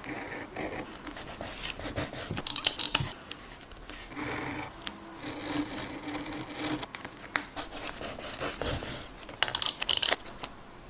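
Close-up journaling craft sounds: decorative tape and paper being handled, rubbed and scratched on a desk, with two louder rasping bursts, one about two and a half seconds in and one near the end.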